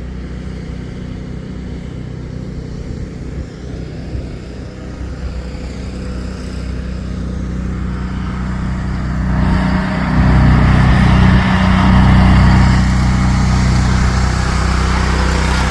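Engine of a snow-plowing machine running steadily, then growing louder and working harder about nine or ten seconds in, with a rush of scraping noise added over the hum.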